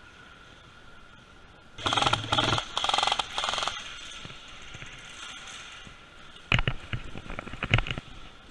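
Airsoft electric gun firing two short full-auto bursts, very fast rapid clicking with a low motor hum under the first, about two seconds in. Near the end come scattered sharp snaps and clicks.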